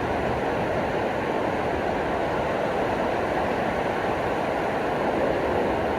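Steady ocean surf, a continuous wash of waves on the beach.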